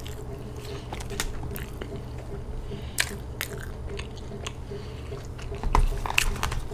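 Close-miked eating sounds: a person chewing and biting food, with scattered sharp mouth clicks and crunches and a cluster of them near the end.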